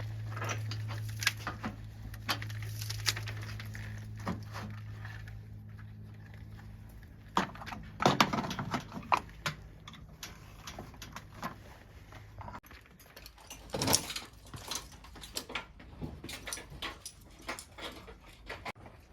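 Metal tools and parts clinking, tapping and knocking in irregular handling sounds, loudest in a cluster about eight seconds in and again near fourteen seconds. Under them runs a steady low machine hum, which cuts off about twelve seconds in.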